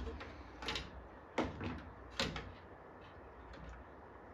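Three light knocks and clicks in the first two and a half seconds, then fainter ticks: tools and parts being handled against a circuit board on a workbench while swapping a capacitor.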